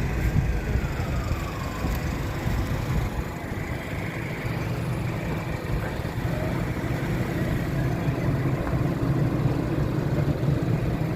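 Steady low rumble of an idling vehicle engine with road traffic around it. A faint tone rises and falls in pitch over the first two seconds.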